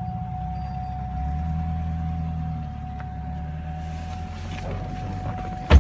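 Chevrolet Avalanche engine idling, a steady low rumble heard from inside the cab, with a thin steady whine above it. A single sharp thump near the end is the loudest sound.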